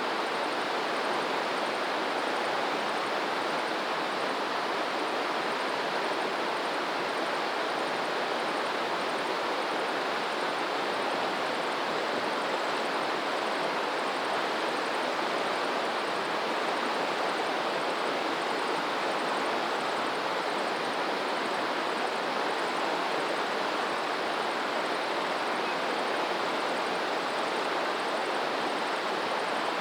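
Steady rushing of flowing water, an even hiss with no surges or breaks.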